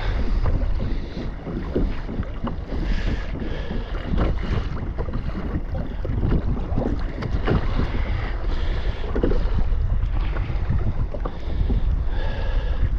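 Wind buffeting the microphone with a steady low rumble, over water sloshing and splashing against a kayak on open ocean.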